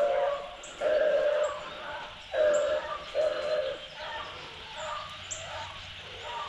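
Beagles baying while running a rabbit: a string of drawn-out, steady-pitched bawls about half a second each, coming close together for the first few seconds and then fainter and more scattered.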